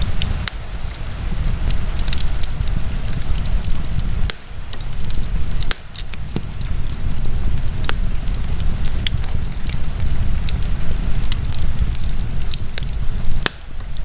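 Fire burning in a fireplace, crackling with many sharp pops at irregular intervals over a steady low rumble.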